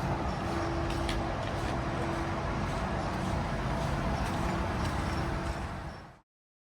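Steady low engine rumble with a faint hum, fading out to silence about six seconds in.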